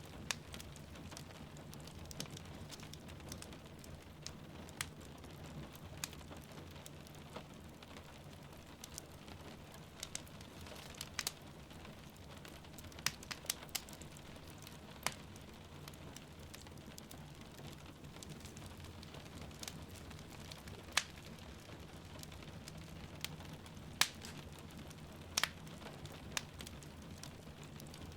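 Wood fire crackling, with irregular sharp pops and snaps, over a steady patter of rain.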